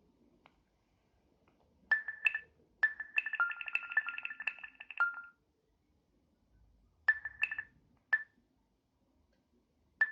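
Microsoft Lumia 640 XL smartphone's speaker chiming by itself with short, high notification-like tones. There is a couple of chimes, then a rapid run of repeated chimes lasting about two and a half seconds, then a few more scattered single chimes. It is an unexplained self-triggered notification sound that a restart and removing the battery did not stop, which the owner fears means the phone is broken.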